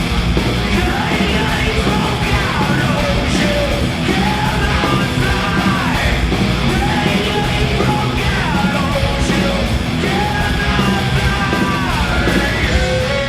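Heavy metal band playing live at full volume: distorted electric guitars, bass and drums under yelled, shouted vocals.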